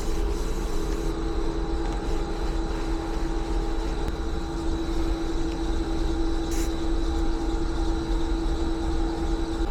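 Portable upholstery cleaner's motor running steadily at a constant pitch, a machine drone with a few fainter higher tones over its rushing noise.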